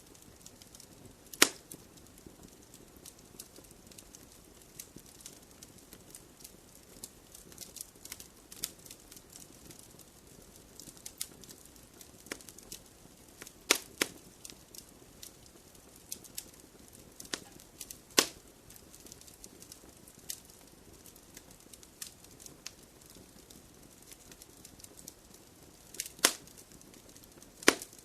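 Wood fire crackling: irregular sharp pops and snaps over a soft steady hiss, with about half a dozen much louder pops.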